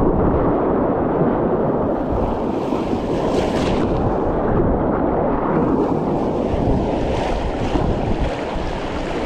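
Whitewater of a small creek rapid rushing steadily around a kayak, with splashes at times and water and wind buffeting the GoPro microphone.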